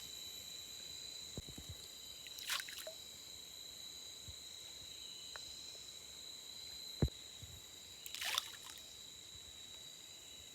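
Two brief patters of fish feed thrown onto a pond's surface, one about two and a half seconds in and one near the end, over the steady high drone of insects.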